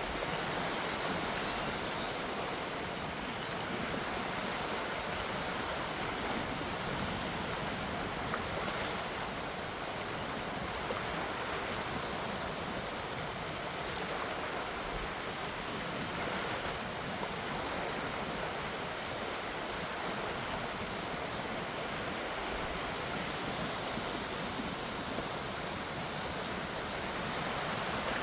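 Gentle sea waves washing steadily, a continuous soft rush that swells and eases only slightly.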